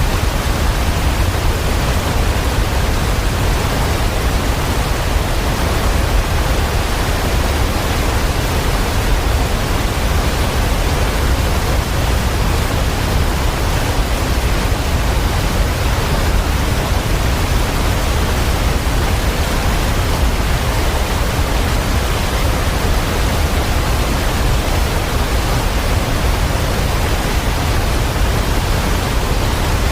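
Steady, even rushing of water, a dense unbroken wash of sound with no separate drops or events, fullest in the low end.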